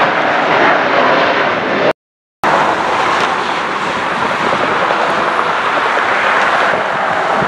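Loud rushing noise of a jet airliner's engines, with no clear tone in it. It breaks off abruptly into half a second of total silence about two seconds in, then a steady rushing noise carries on.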